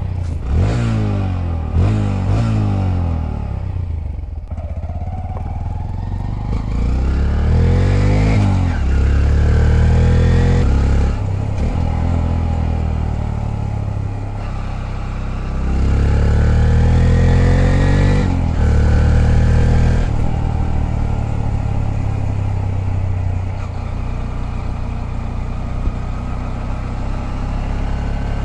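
Honda Grom's 125 cc single-cylinder four-stroke engine accelerating through the gears, its pitch climbing and dropping back at each shift several times. For the last several seconds it holds a steady cruise.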